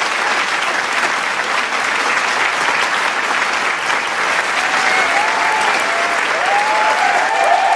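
Large crowd applauding with dense, steady clapping. From about two-thirds of the way in, cheers and whoops rise over the clapping and grow toward the end.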